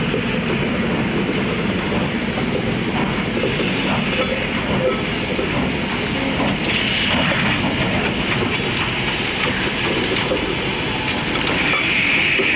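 Train running on the rails: a steady rumble with wheels clattering over the track.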